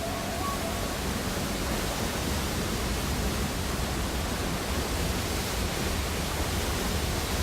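Steady, even rushing noise with no pitch to it.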